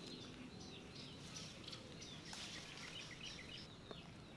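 Faint outdoor ambience with small birds chirping in short, repeated calls.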